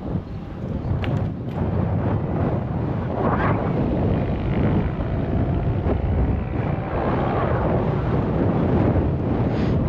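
Wind buffeting the microphone of a GoPro carried on a moving bicycle, a constant rumble that swells and eases, with city traffic underneath.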